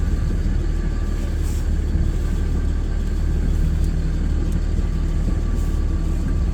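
Truck engine running steadily at low speed during slow manoeuvring, a constant low rumble heard from inside the cab.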